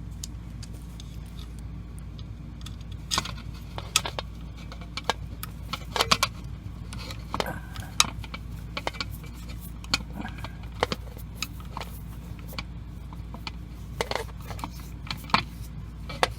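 Irregular metallic clicks and clinks of screws and a hand tool as the two screws holding a washing machine's drive motor are fitted and tightened, over a steady low hum.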